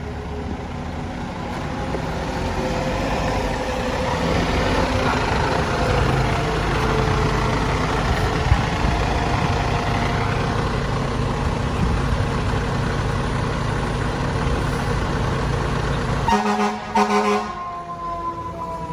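A fire truck's diesel engine runs close by, steady and loud. About sixteen seconds in, several short air-horn blasts sound. A siren then winds down, falling slowly in pitch.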